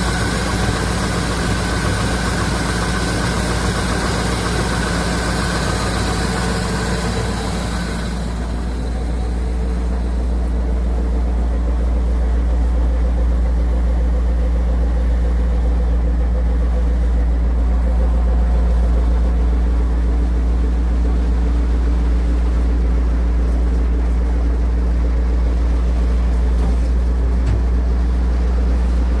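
Chevy 350 V8 of a 1973 Chevy C60 grain truck idling steadily. About eight seconds in, a hiss in the upper sound drops away and the low engine hum comes through more strongly.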